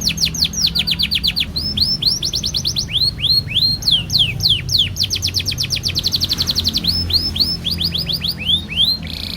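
Domestic canary singing a long continuous song of rapid, repeated downward-sweeping notes, phrase after phrase, some slower and some a fast rolling trill. A low steady hum runs underneath.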